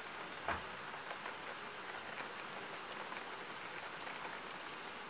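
Steady rain falling, with scattered drops tapping on the window glass and one sharper tap about half a second in.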